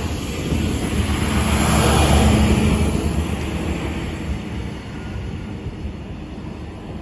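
Arriva Lint 41 diesel multiple unit pulling away past the platform, its diesel engines running loud as it goes by close, then fading as it draws away down the track.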